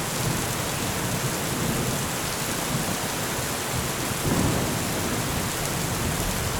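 Steady heavy rain hissing, with a brief low rumble of thunder about four seconds in.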